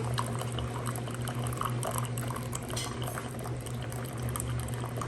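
Electric instant hot-water dispenser running with a steady low hum while hot water runs into a cup, with small scattered crackles.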